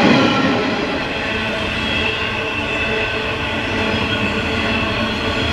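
Grain hopper wagons of a freight train rolling past, wheels rumbling over the rails with a thin, steady high wheel squeal. The sound is louder and rougher at first and drops a little about a second in.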